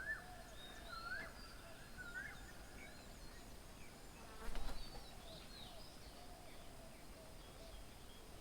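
Birds calling: a rising call repeats about once a second for the first few seconds, with fainter chirps and warbles around it. About four and a half seconds in, a brief, louder noisy burst lasting about half a second.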